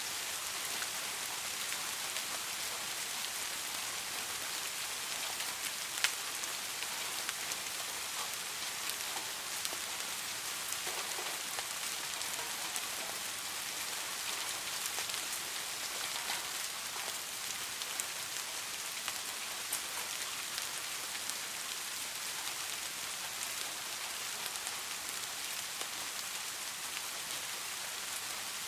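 Steady rain falling, an even hiss with scattered individual drops ticking through it and one sharper drop about six seconds in.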